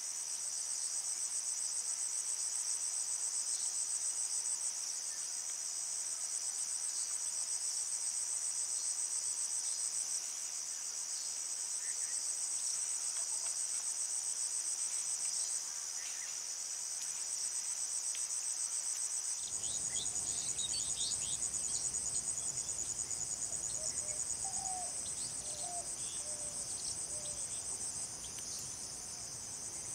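Dense chorus of insects, a continuous high-pitched pulsing trill. About two-thirds of the way through, a low background rumble comes in suddenly, with a few faint short chirps over it.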